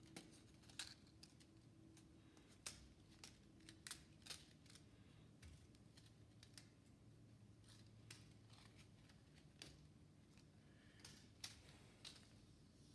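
Faint, irregular clicks and light ticks, a dozen or so at uneven spacing, over a low steady hum.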